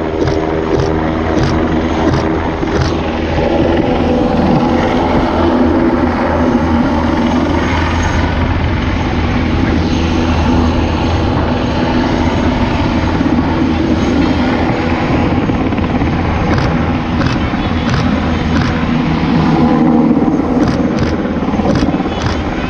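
Military helicopter in flight: a steady turbine and rotor sound, with a quick, regular rotor beat near the start and again over the last few seconds.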